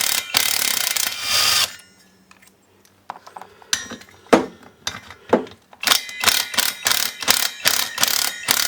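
Ratchet wrench with a 17 mm socket clicking as it unscrews a brush cutter's clutch: a quick run of ratchet clicks, a pause of about two seconds, then scattered clicks and knocks that turn into a fast, even run of clicks near the end.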